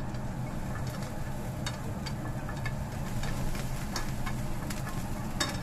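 Onion frying in a nonstick pan and stirred with wooden chopsticks: light sizzling with scattered taps of the chopsticks against the pan, a sharper tap about five seconds in. Under it runs a steady low hum.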